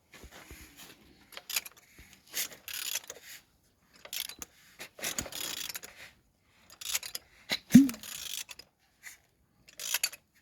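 Removed engine being turned over by hand with a wrench on the crankshaft: a series of irregular scraping, clicking strokes, with one louder knock about eight seconds in.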